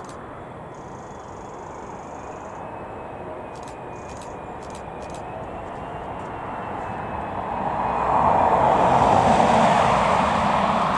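Jet airliner passing close by, its engine noise swelling slowly from a distant rumble to a loud peak about eight seconds in, with a faint whine over it.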